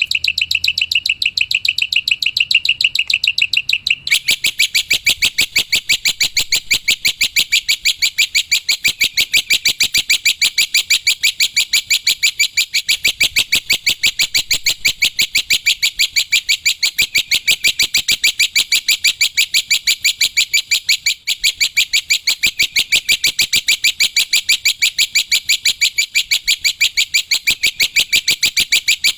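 Black-winged myna (jalak putih) calling in a rapid, unbroken run of high chirps repeated at a steady pace, fuller in tone from about four seconds in.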